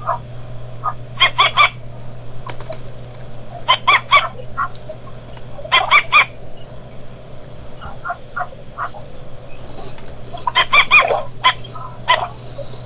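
Birds calling in short groups of three or four sharp notes, coming every two to four seconds, over a steady low hum.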